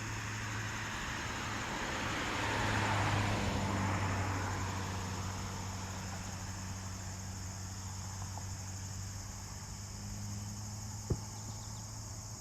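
Outdoor background noise: a steady low hum under a broad hiss that swells for a couple of seconds and slowly fades, with a single sharp click near the end.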